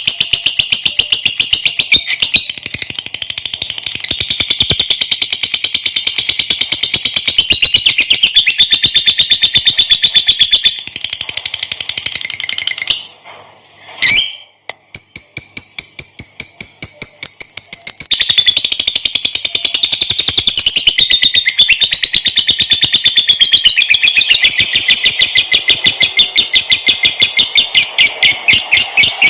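Lovebird singing its long chattering trill ('ngekek panjang'): a fast, unbroken run of shrill repeated notes, with a break of about a second near the middle before it starts again.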